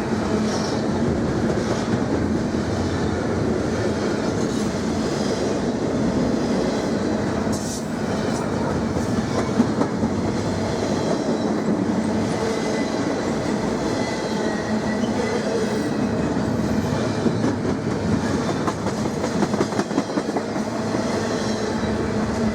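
Intermodal freight train cars rolling past steadily, steel wheels clattering over the rail joints, with a few sharper clanks about ten seconds in and again near the end.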